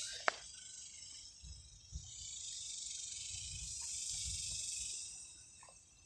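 A high, dry buzzing rattle that swells up about a second and a half in, holds for about three seconds, then fades, with one sharp click just after the start.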